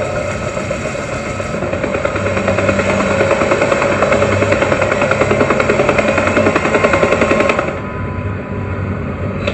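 Action-film soundtrack: a fast, continuous rattle of sharp repeated hits over music and a low rumble, which drops away suddenly near the end.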